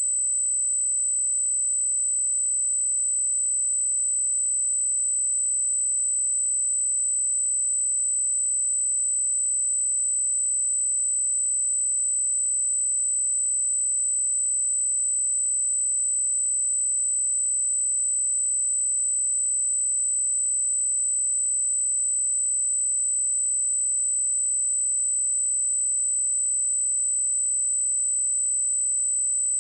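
A pure 8037 Hz sine-wave test tone: one steady, unbroken high-pitched tone at constant loudness.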